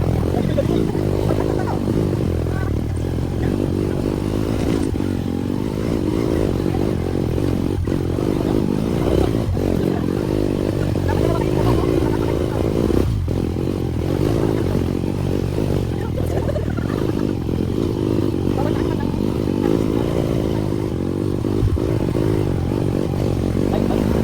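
Motorcycle engine running steadily while riding, with a few short knocks and rattles.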